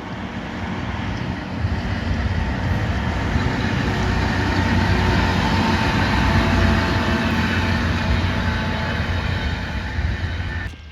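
A diesel train passing close by on a mainline track: engine rumble and wheels on rail, swelling to a peak midway, then cutting off suddenly near the end.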